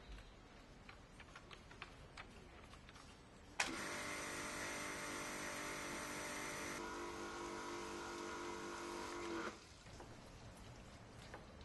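A motor-driven machine switches on suddenly with a click and runs with a steady pitched hum. Its sound changes about three seconds later, and it stops about six seconds after starting. A few light clicks come before it.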